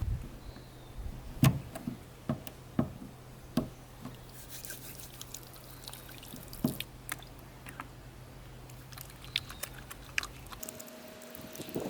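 Scattered small clicks and knocks, the sharpest about a second and a half in, over a low steady hum that cuts off shortly before the end.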